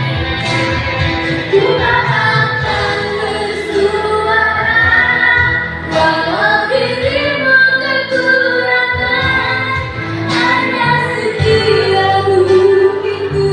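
A woman singing a pop song live with band accompaniment.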